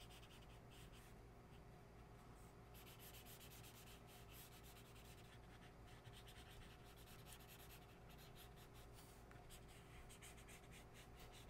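Faint scratching of a marker on paper: quick, irregular colouring-in strokes as a branch is filled in, over a low steady hum.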